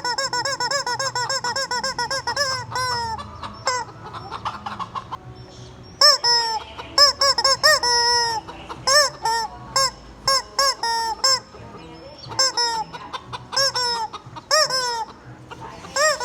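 Squeaky rubber chicken toy squeezed over and over: short honking squeals, each rising and falling in pitch, in a fast run, then a pause of a few seconds and more bursts of squeals.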